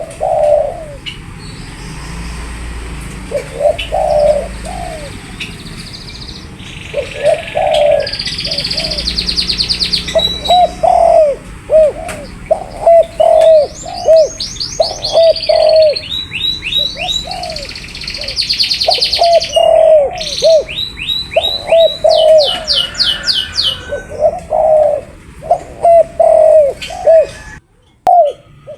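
Spotted dove (tekukur) cooing over and over in short repeated phrases, with other small birds chirping and trilling higher in pitch at times. The sound cuts out briefly near the end.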